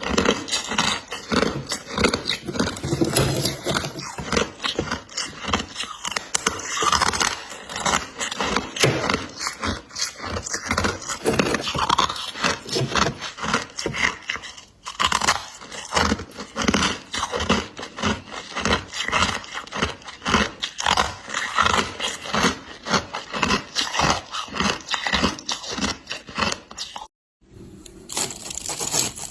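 Freezer frost being bitten and chewed close to the microphone: a dense run of crisp crunches, a few strokes a second, with two short pauses.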